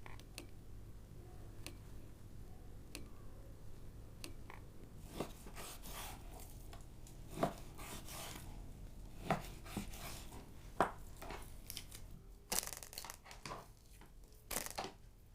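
Scattered light clicks, knocks and rustling of hands-on food preparation, over a faint steady low hum. The knocks grow more frequent and sharper in the second half, with a few louder ones.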